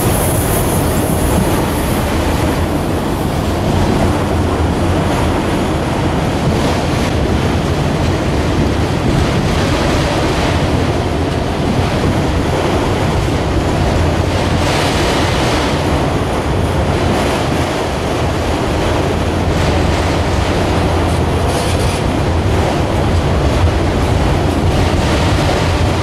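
Freight train of autorack cars rolling past: a steady rumble and clatter of steel wheels on the rails, with a brief high wheel squeal near the start.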